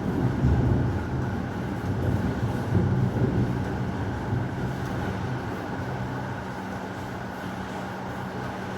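Rolling thunder rumbling over steady heavy rain, the rumble dying away about halfway through while the rain hiss carries on.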